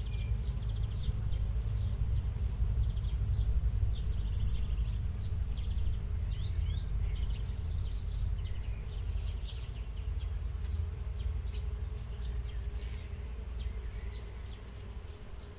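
Many small birds chirping and twittering in quick short calls, over a steady low rumble.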